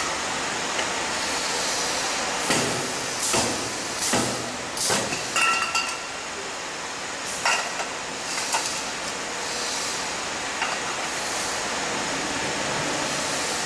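Three-head spot welding machine for aluminium pots at work: a run of short hisses of air, bunched in the first half, with light metallic clinks, over steady background noise.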